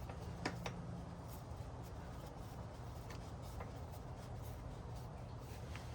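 A few light clicks and handling noises of small screws and plastic motorcycle parts being fitted, over a steady low hum.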